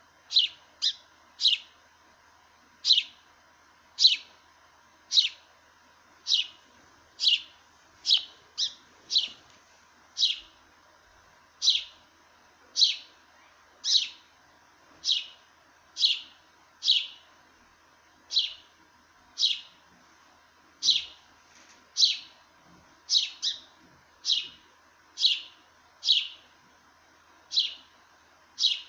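Sparrow chirping: a long run of single short chirps, about one a second at uneven spacing, each much like the last.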